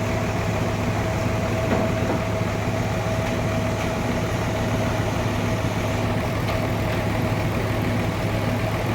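Sawmill machinery running steadily: a constant engine-like hum with a steady whining tone over it.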